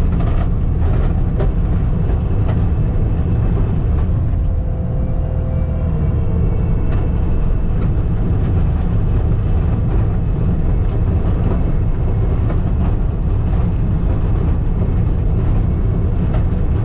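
Skid steer engine running steadily while grading, with occasional knocks and rattles.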